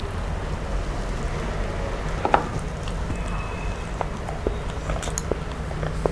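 Close-miked eating sounds: a person chewing fish and picking at it with the fingers, with small wet clicks and smacks and one sharper click about two seconds in, over a steady low hum.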